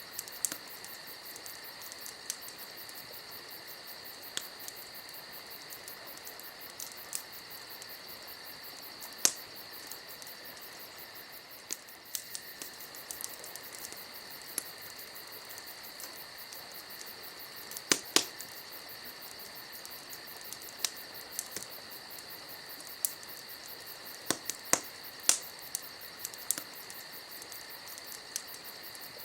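Campfire crackling: irregular sharp pops and snaps of burning wood, a loud pair about halfway through and a cluster near the end, over a steady, high chorus of chirping crickets.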